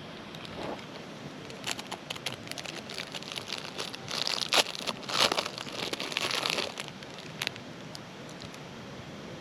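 Crinkling and rustling, like a food wrapper being handled, with scattered small clicks; it is loudest in a stretch about four to seven seconds in.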